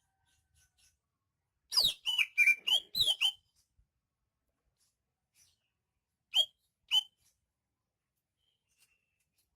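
Greater green leafbird (cucak ijo) singing: a loud, rapid run of sweeping whistled notes about two seconds in, then two single sharp downward-sliding notes a few seconds later.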